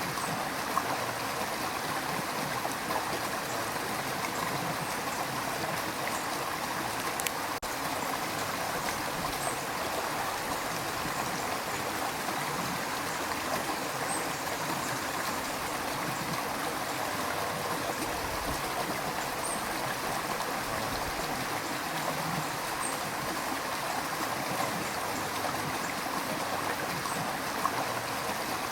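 River water rushing and burbling over rocks, a steady dense wash with small splashes now and then.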